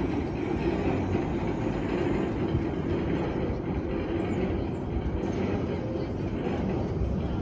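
Miniature park train running along its track, a steady running sound of wheels on rails.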